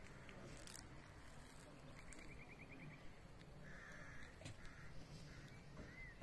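Near-silent ambience with faint distant birds calling: a quick run of about eight short notes about two seconds in, a harsher call a little over a second later, and a short up-and-down note near the end.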